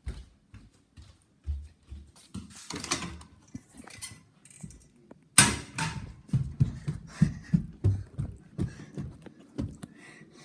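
Footsteps going quickly up a flight of stairs, a run of thuds about three a second, after a sharp knock a little over five seconds in. Softer rustling and bumps of the phone being handled come before.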